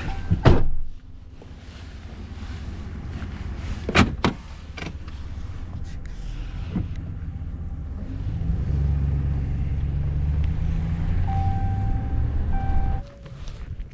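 Truck engine running while being driven at low speed, with two sharp knocks in the first few seconds. The engine grows louder about eight seconds in, then stops abruptly near the end.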